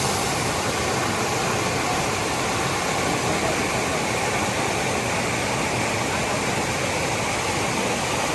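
Steady rush of water from a rainforest waterfall, an even hiss that holds at a constant level throughout.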